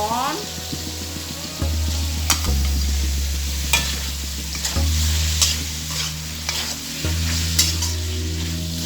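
Prawns sizzling in hot oil and sauce in a frying pan, stirred with a metal spatula that scrapes and knocks against the pan several times, over a low steady hum.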